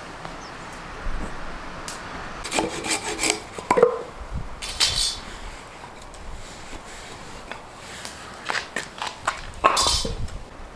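Pieces of firewood being handled: irregular wooden knocks and scraping in two bunches, with a quieter stretch between them.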